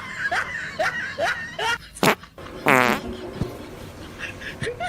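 Prank fart noise: one loud, buzzy fart about halfway through, lasting under half a second, with a short sharp crack just before it.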